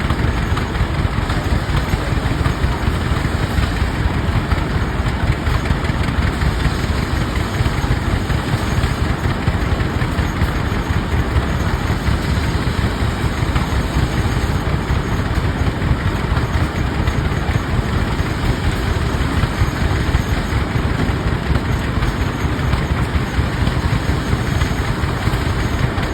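Antique Rumely OilPull tractor engines running steadily, a continuous low engine drone that does not change.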